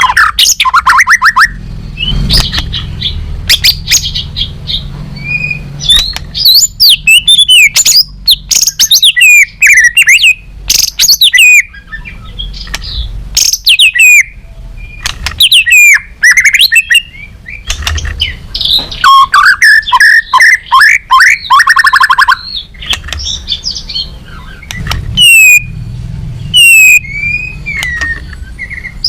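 White-rumped shama singing a loud, varied song of rapid whistled phrases, fast trills and sweeping notes, with short pauses between phrases.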